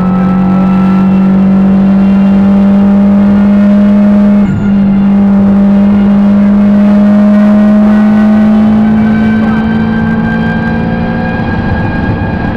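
Subaru Impreza rally car's flat-four engine pulling hard, heard from inside the cabin. It holds a high, nearly steady pitch, with a short break about four and a half seconds in, a gear change, then eases slightly in level near the end.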